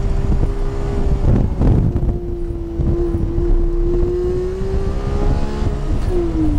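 Porsche's engine heard from inside the cabin, pulling hard in second gear over loud tyre and road rumble. The pitch dips with a noisy lift about a second and a half in as the car brakes for a corner, then climbs steadily as it accelerates. It falls sharply near the end with the shift into third.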